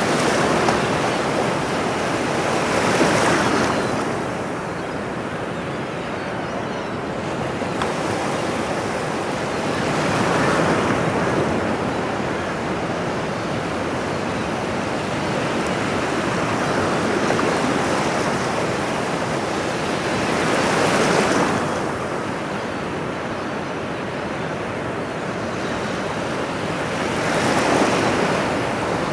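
Ocean surf: a continuous wash of breaking waves that swells into a louder surge every several seconds.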